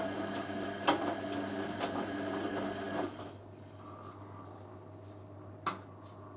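Hoover A3060 washing machine tumbling its drum, its motor humming steadily with a light knock about once a second. About three seconds in the motor stops for the pause between tumbles, leaving a quieter hum broken by one sharp click near the end.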